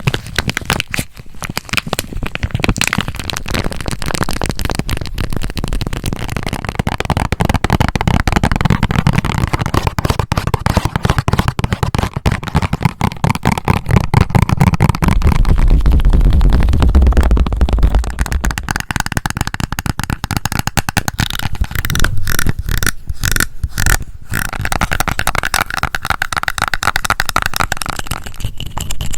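Close-miked ASMR triggers: fast fingernail tapping and scratching on a succession of objects, changing every few seconds. A deep, rumbling stretch comes about halfway through, and a brighter, hissier stretch comes near the end.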